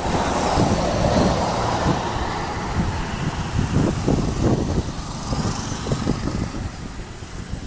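Engine and propeller noise of a Cessna 172S light aircraft, mixed with gusty wind rumble on the microphone, gradually fading.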